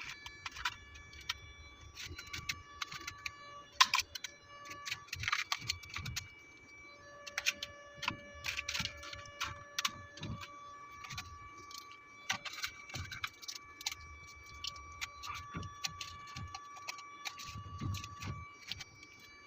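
Freezer frost crunching: a run of irregular, crisp crunches and clicks, with a few louder ones.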